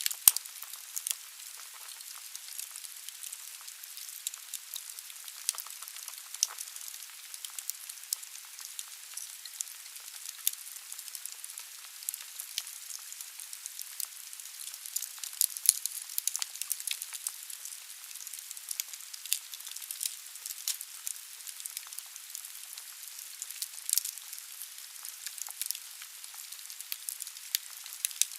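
Wood fire burning in a fireplace: a steady hiss with many sharp crackles and pops from the burning logs.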